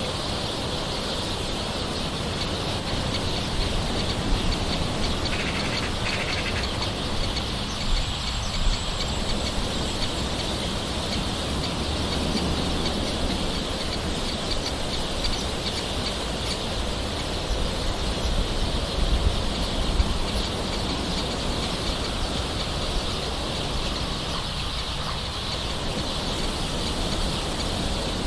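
Gentle rain falling steadily, with birds calling over it.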